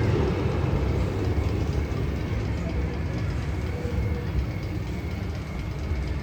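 Magnum XL 200 roller coaster ride with a steady low rumble and no distinct strokes or tones.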